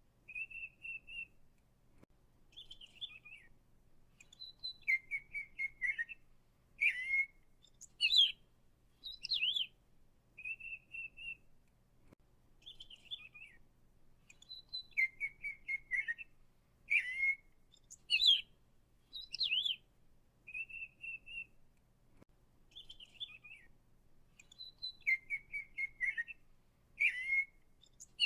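Songbird singing: short high chirps, buzzy trills and quick down-slurred whistles, the same series of phrases repeating about every ten seconds.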